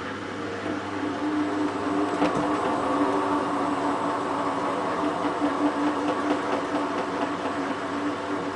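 Hotpoint WT960 washing machine running mid-cycle: a steady mechanical hum with a motor tone that strengthens from about two seconds in, and a single knock just after that.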